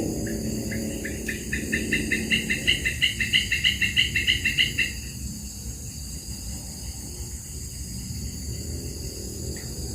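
Steady high drone of insects, with a rapid series of repeated chirping notes. The notes speed up and grow louder over the first five seconds, then stop.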